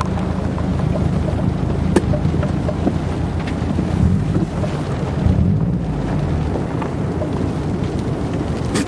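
Strong wind buffeting the microphone: a loud, steady low rushing rumble, with a few faint clicks.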